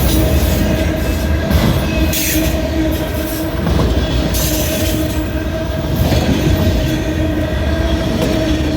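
Freight train of loaded auto rack cars rolling past close by: a loud, continuous rumble of wheels on rail with a steady whining squeal from the wheels held on one pitch throughout, and irregular rattling hiss.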